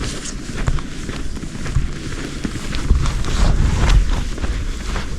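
Footsteps in snow, with wind rumbling on the microphone, loudest about three to four seconds in.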